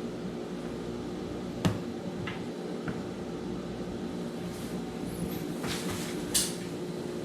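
Small parts of a spinning reel being handled during disassembly: one sharp click about a second and a half in, a couple of faint ticks after it, and two short scrapes near the end, over a steady low hum.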